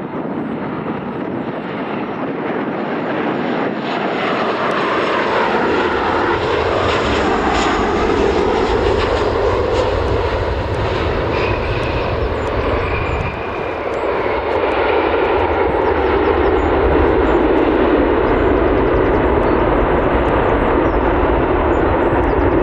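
A fixed-wing airliner's engines running, growing steadily louder as the aircraft comes closer. About four seconds in, a sweep in pitch passes through the noise.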